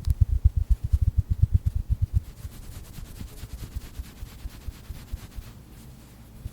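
Hands patting and tapping a plush stuffed duck toy: a fast run of dull, soft thumps, about ten a second, for about two seconds, then slower, fainter ones.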